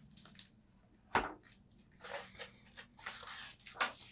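Handling of a paper picture book: a knock about a second in, then rustling as pages are turned, and another knock near the end.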